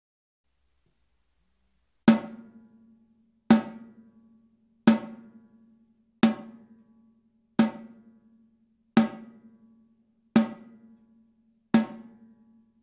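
One drum of a Gretsch Renown Purewood hickory-shell kit struck eight times, single hits about a second and a half apart, starting about two seconds in. Each hit rings on at one steady pitch and fades before the next.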